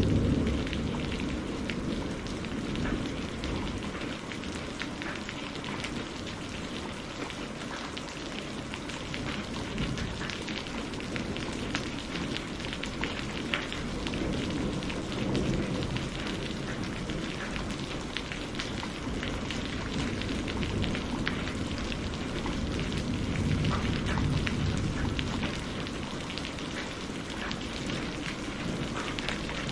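Steady rainfall with a dense patter of drops. A low thunder rumble dies away in the first second or so.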